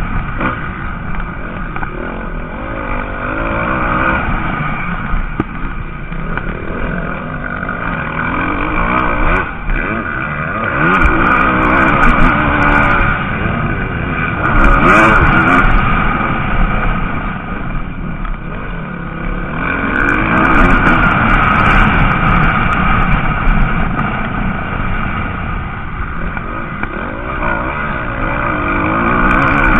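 MX2-class motocross motorcycles racing on a dirt track, their engines revving up and dropping off as they go through the track. The sound swells as bikes pass and eases between them.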